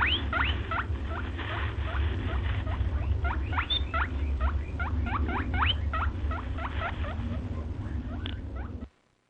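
Brood of chicks peeping: many short, rising peeps, several a second, over a steady low rumble, cutting off suddenly near the end.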